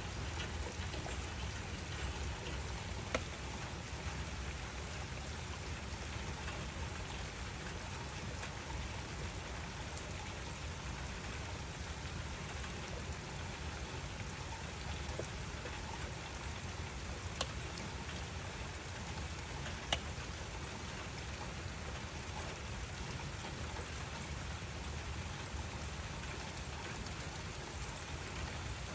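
Steady rain falling, an even hiss of drops with a few louder single drop ticks standing out.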